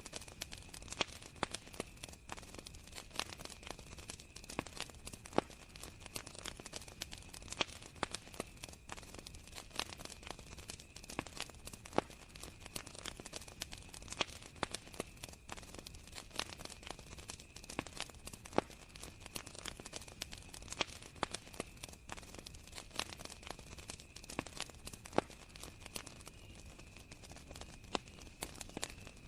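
Wood fire crackling, with frequent irregular sharp pops and snaps, over a steady high trill of crickets.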